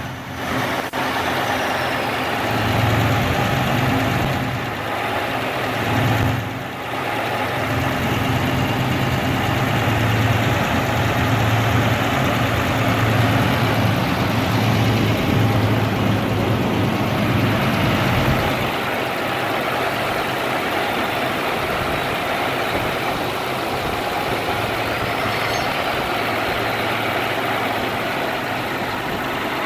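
Remanufactured Arrow A-54 single-cylinder gas engine running on a test run. Its low running note eases and gets a little quieter about two-thirds of the way through.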